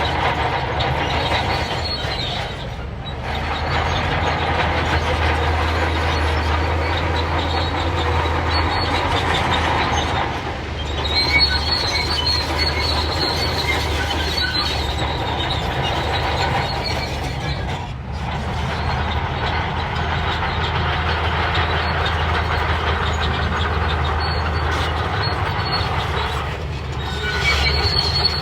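Crawler bulldozer working in sand: a steady diesel engine hum under squealing and clattering steel tracks. The noise dips briefly four times, about every seven or eight seconds.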